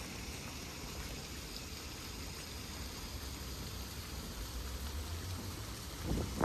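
Steady rushing of flowing water, with a short low thump near the end.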